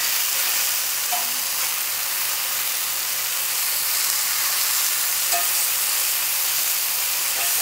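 Oyster mushroom steaks sizzling steadily in oil in a hot cast iron skillet as they are flipped, with a few brief light clinks of the utensil against the pan.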